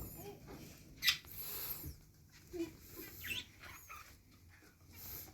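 Pet lovebirds giving a few short, shrill chirps and squawks, the loudest about a second in.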